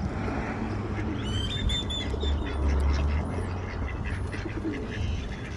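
Ducks quacking with small birds chirping: a quick run of high chirps in the middle and a few thin whistles later, over a low outdoor rumble.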